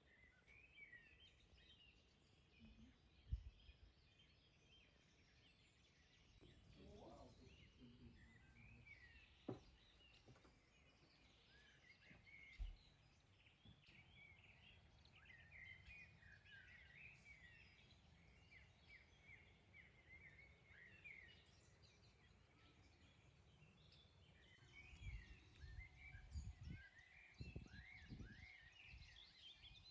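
Faint birdsong outdoors: many small birds chirping and twittering, with a few soft low thumps and some low rumbling near the end.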